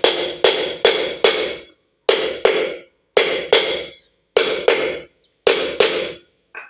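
Hammer striking metal with sharp, ringing blows, mostly in quick pairs about a second apart, about a dozen in all.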